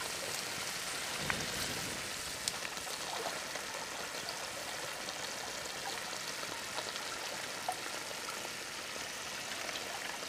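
Eels cooking in a wok over a wood fire, sizzling with a steady hiss and a few faint crackles.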